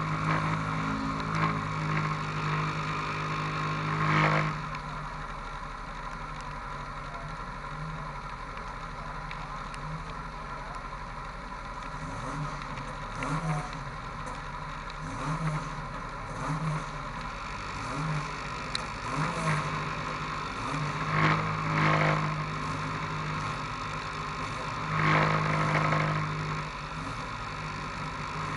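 Autocross race car engines idling while stationary, with a few short throttle blips. The engine note is louder and steadier for the first few seconds, then quieter, and swells again twice near the end.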